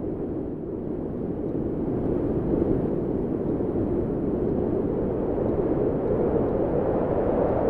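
Recorded wind blowing in a steady low rush, swelling a little in strength over the last few seconds.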